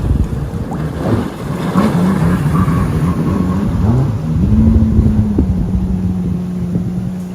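Small boat's engine running, its pitch rising and falling for the first few seconds, then holding steady, over a low rumble of wind and water.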